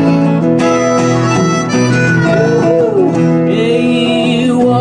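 A harmonica plays a melodic phrase with bending notes over guitar accompaniment in a folk-style song. A singer comes back in near the end.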